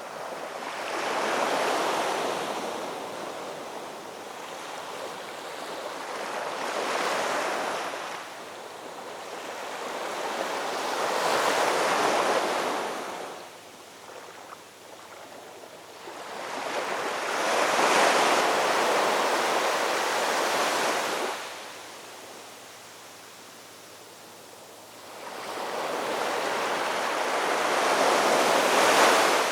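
Ocean waves breaking and washing up a shore. The surf rises and falls in slow surges, one every five or six seconds, with quieter lulls between them.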